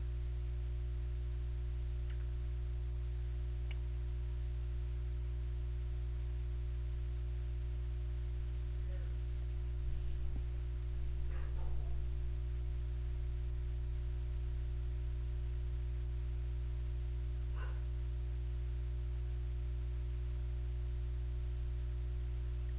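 Steady low electrical hum, with a few faint clicks and scrapes from hand work on a motorcycle rear shock.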